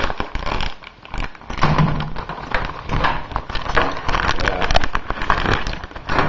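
Plastic food packaging crinkling and crackling as it is handled and turned over, in a dense run of irregular crackles.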